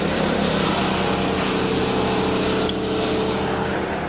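Crane engine running steadily at constant speed, with a brief click partway through.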